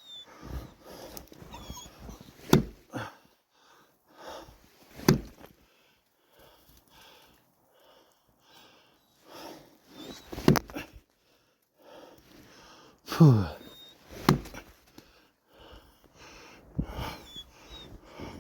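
West Siberian laika barking in single sharp barks several seconds apart, about four in all.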